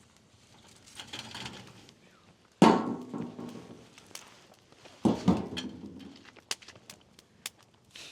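Two heavy thuds about two and a half seconds apart, each trailing off briefly, followed by a run of light clicks.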